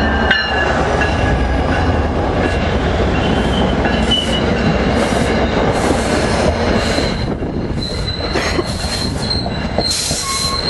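A passenger train rolling past close by, its wheels squealing with thin high tones over a steady rumble and clatter.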